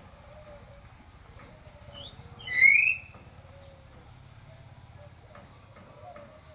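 Hill myna giving a couple of faint short rising whistles about two seconds in, then one loud rising whistled call with overtones.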